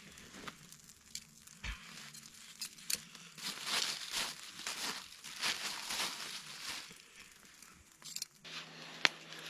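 Irregular crinkling and rustling of handled material, with scattered small clicks and one sharp click near the end.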